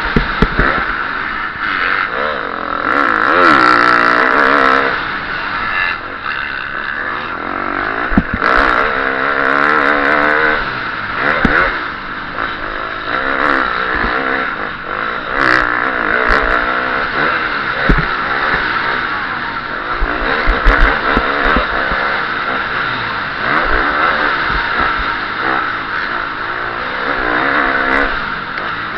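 KTM SX-F 350 single-cylinder four-stroke motocross engine recorded onboard while racing, revving up and down repeatedly through acceleration and gear changes, with wind on the microphone and occasional knocks from the bike over rough ground.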